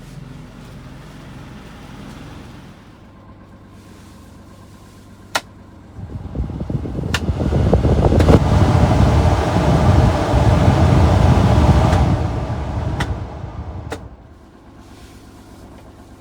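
1997 Honda Acty mini truck's small engine running with a steady low hum, then growing much louder for about eight seconds before settling back. A few sharp clicks come through along the way.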